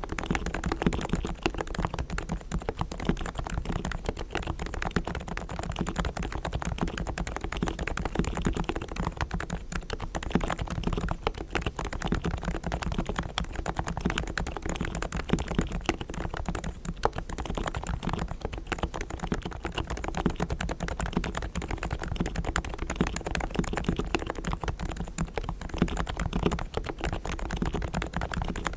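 Realforce R3 tenkeyless Topre electrostatic-capacitive keyboard with 45 g silent switches, lubed with Krytox on springs and sliders, being typed on continuously in fast, dense keystrokes.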